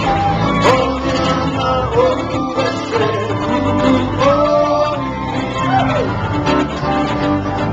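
Live acoustic band performance of a Hawaiian song: plucked guitar accompaniment with a male voice singing the melody.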